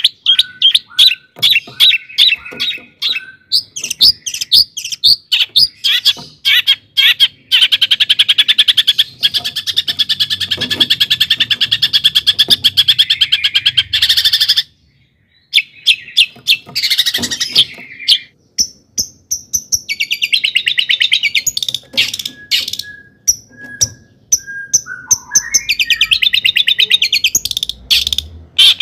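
Long-tailed shrike (cendet) singing a fast, varied song: quick runs of sharp chips, long rapid trills, and short whistled notes. There is a brief pause about halfway through.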